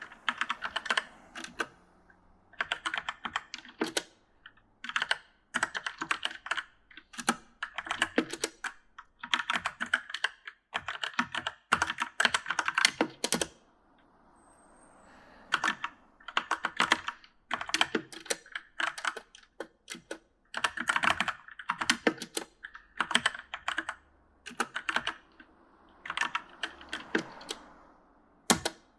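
Typing on a mechanical gaming keyboard: quick runs of key clicks in short bursts with brief pauses between them, and a longer pause about halfway through.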